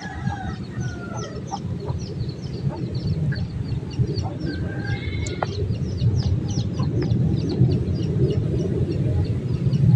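Birds calling: many short, high chirps throughout, with a few lower, drawn-out calls near the start and about five seconds in, over a steady low rumble.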